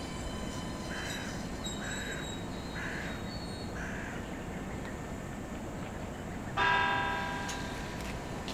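A crow cawing four times, about a second apart. Then a single loud bell-like ring strikes suddenly and fades over a second or so, over a steady low rumble of the railway depot.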